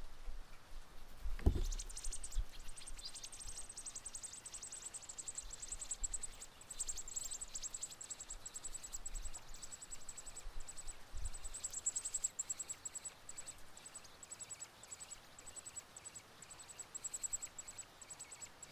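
American robin nestlings begging: a continuous, very high-pitched, rapidly pulsing chirping that starts about two seconds in, right after a brief low thump, the sign of a parent robin arriving at the nest to feed them.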